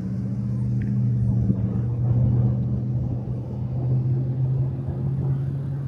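Engine and road noise inside a moving car's cabin: a steady low drone with an even hum.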